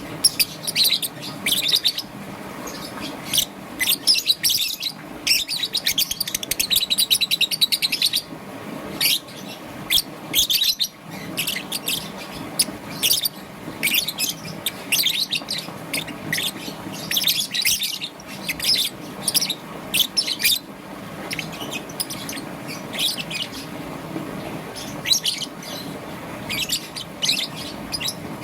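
Peach-faced lovebird chirping: rapid high-pitched chirps in fast runs, busiest in the first third, then shorter scattered bursts.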